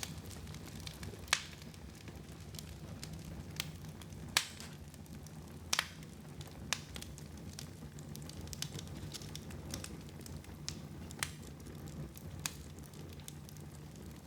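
Wood fire burning in a fireplace: a steady low rumble of flame with irregular sharp crackles and pops, a few louder ones standing out, the strongest about a second in and just past four seconds in.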